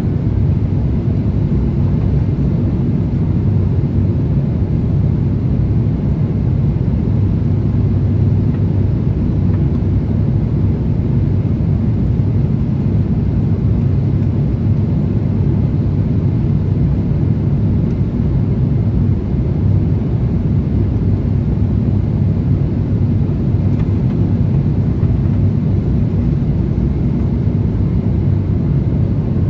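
Airbus A350-1000 airliner in flight, heard as a steady low rumble of engines and airflow inside the cabin, unchanging throughout.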